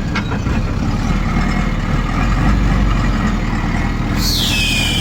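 Truck engine running low and steady as the truck is manoeuvred into place. About four seconds in, a high squeal falls in pitch and then holds briefly, as from the brakes.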